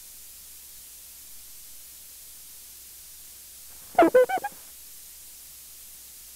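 Faint steady hiss, broken about four seconds in by a brief run of about four quick pitched pulses.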